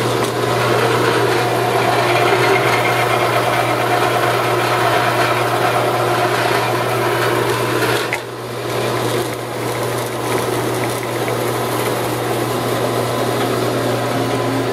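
Rollin EF1459 band saw running under power, its electric motor humming steadily with the rattle of the drive belts and moving blade. The sound dips briefly about eight seconds in, then runs on a little quieter.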